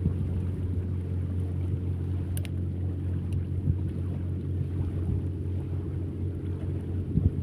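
An engine running with a steady low drone, with a single sharp click about two and a half seconds in.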